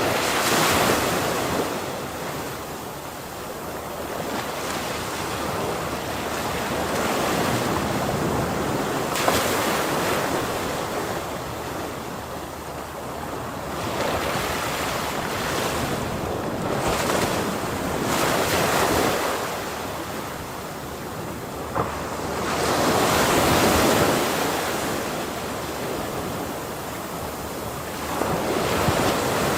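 Ocean waves breaking and washing up on the shore, the surf swelling and falling away every few seconds, with a few louder crashes.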